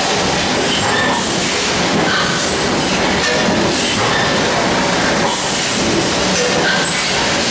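Steady, loud rushing noise of a vehicle in motion, with short high-pitched squeaks recurring about once a second: the abnormal noise being recorded.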